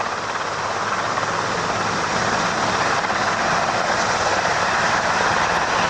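Helicopter in flight: a steady rushing engine and rotor noise, growing slightly louder.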